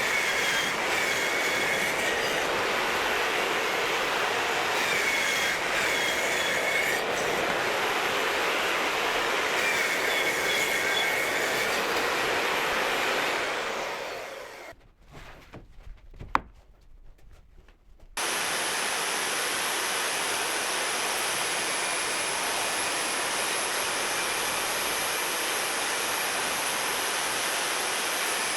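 Power saw cutting OSB boards into strips: the saw runs loud and steady, a high whine coming and going during the cuts, then winds down about 13 seconds in. After a short quiet with a single click, it starts up again abruptly and runs steadily.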